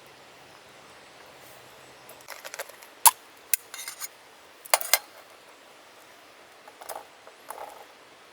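Cooking utensils and containers being handled during food preparation: a few sharp clicks and clinks about three and five seconds in, with softer rattles between and near the end, over a faint steady hiss.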